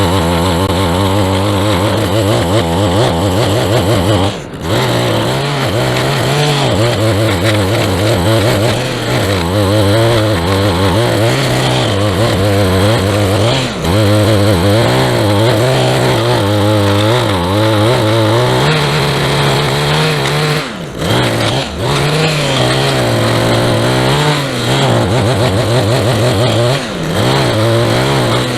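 Small gasoline engine of a lawn tool running steadily under load, its pitch wavering up and down, with about four brief dips where the throttle drops.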